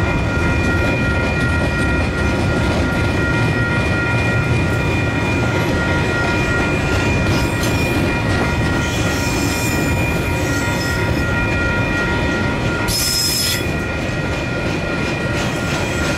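KiwiRail freight train wagons rolling past close by, a steady rumble of wheels on rail with a high, steady squeal of the wheels over most of it that fades away about twelve seconds in. A brief hiss comes about thirteen seconds in.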